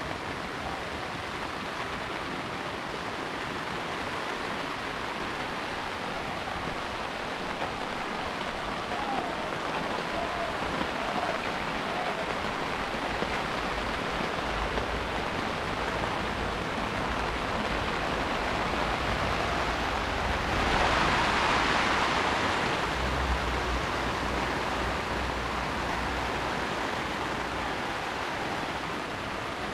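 Heavy rain falling steadily, a dense even hiss that swells louder for a couple of seconds about two-thirds of the way through.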